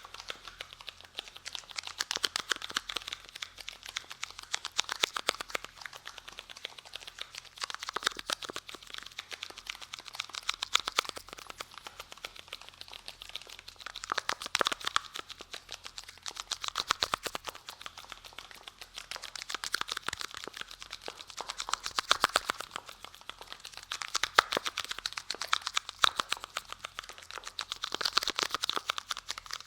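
Close-miked ASMR crinkling and scratching: a dense run of fine crackles and clicks that swells and eases every two to three seconds.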